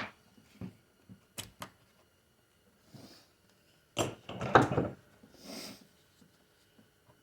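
Metal 4L60E transmission parts being handled on a workbench: scattered light clicks and knocks, with a louder clatter of several knocks about four seconds in, and a couple of short soft hisses.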